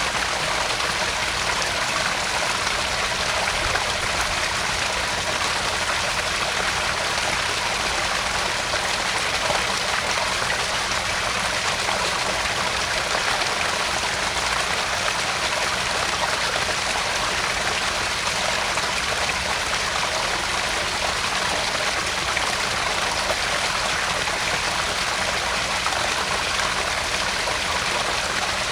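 Water of a small garden-pond waterfall splashing and trickling steadily into the pond.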